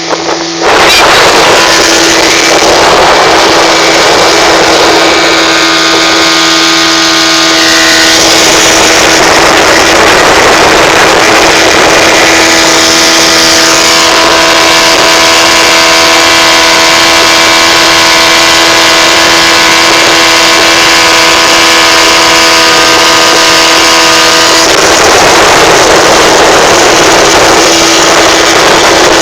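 Motorboat engine running at full speed, a steady engine tone under loud rushing noise of wind and water.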